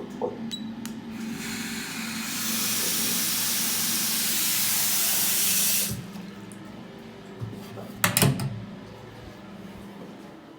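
Water running from a tap, building up over about a second, then flowing steadily and shut off suddenly after about four seconds. A few sharp knocks follow later.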